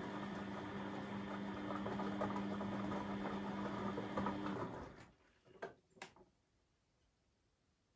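Beko WMB 71643 PTE washing machine's brushed drum motor running with a steady hum over tumbling and sloshing, then winding down and stopping about four and a half seconds in. Two clicks follow a second later, then near silence.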